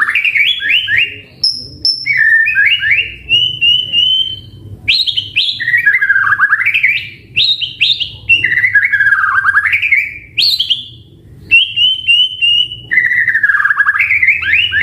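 White-rumped shama (murai batu) singing a loud, varied song of repeated whistled phrases. Each phrase sweeps down from high to low and climbs back in quick stepped notes, with short runs of even notes between, and a new phrase starts every two to three seconds.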